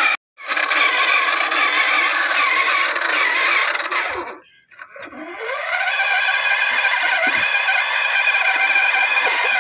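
Tractor engine running under load, with a steady high mechanical whine over it. It cuts out briefly twice; after the second break the whine rises in pitch and holds steady.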